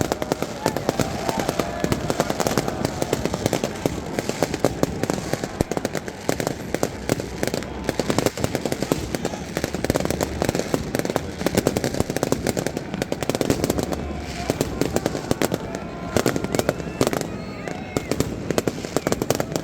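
Many fireworks going off at once in a rapid, near-continuous barrage of cracks and bangs, with people's voices faintly underneath now and then.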